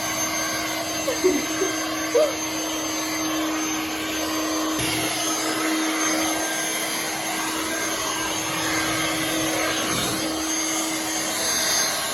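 Handheld hair dryer running steadily, blowing air with a constant motor hum; its sound shifts about five seconds in as it is moved or switched over the wet dog's coat.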